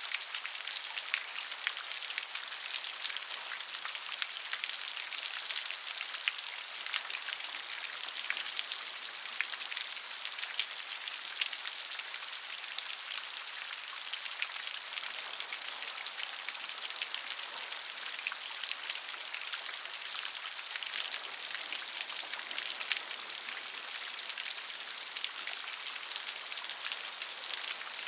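Steady rain falling, a dense hiss with many small drop ticks and splashes on a hard surface.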